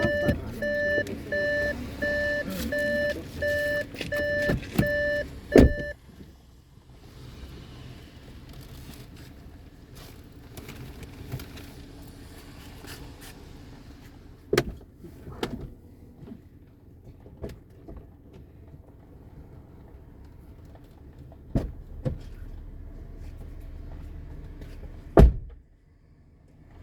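A car's warning chime beeping evenly, about one and a half beeps a second, for the first six seconds, ending with a sharp thump like a car door shutting. Then a steady low rumble with a few scattered knocks, and a loud thump near the end.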